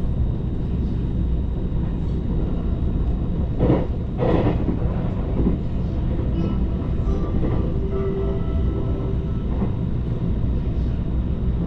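Inside a JR Kyushu 885 series electric limited express train running at speed: a steady low rumble of the wheels on the rails, with a couple of brief louder swishes about four seconds in.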